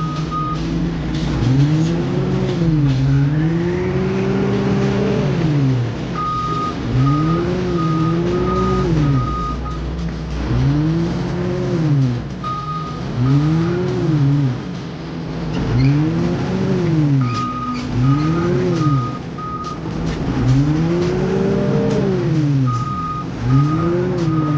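Heavy construction machine's engine revving up and falling back over and over, about every two seconds. Runs of a high alarm beeping, about two beeps a second, come and go over it.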